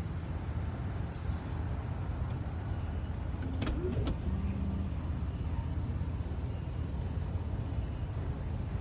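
Steady low vehicle rumble, with two short sharp clicks a little past the middle.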